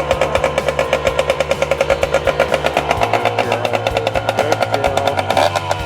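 1979 Kawasaki KM100's small two-stroke single-cylinder engine running steadily at a rapid, even, popping idle that sits a little high.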